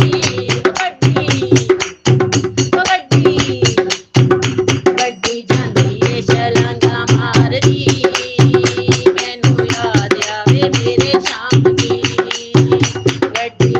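Devotional Hindi-Punjabi folk song (a Khatu Shyam bhajan): a singing voice over a fast, steady hand-drum beat.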